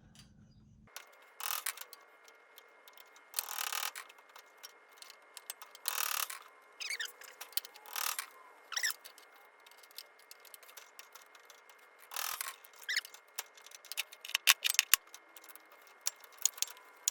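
A tool scraping and picking at old group head gaskets on an espresso machine, irregular scrapes and sharp clicks as the gaskets, gone hard and crumbly with age, break apart in pieces. A quick run of sharp clicks comes near the end.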